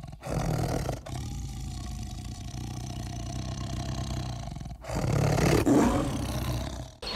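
Tigers growling and roaring in short spliced clips: a brief loud growl at the start, a low rumbling growl through the middle, and a louder roar about five seconds in.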